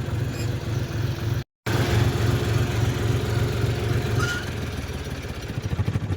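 Diesel engine of a John Deere tractor running at a steady low idle, broken by a short silent gap about a second and a half in and fading near the end.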